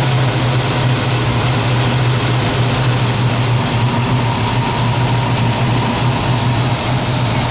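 1969 Camaro SS's V8 engine idling steadily, with a strong, even low note.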